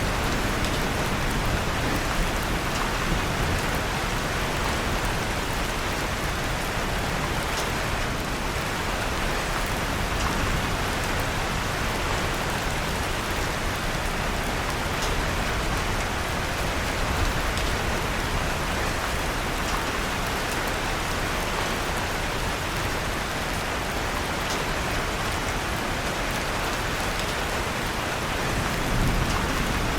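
Steady rain falling, with occasional faint crackles from a wood fire in a fireplace.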